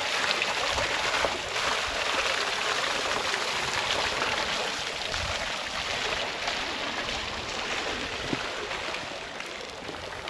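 Steady rush of flowing, splashing water, growing a little fainter near the end.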